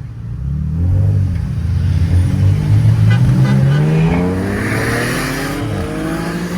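Car engine accelerating hard at full throttle during a roll race, its pitch climbing steadily as the car pulls.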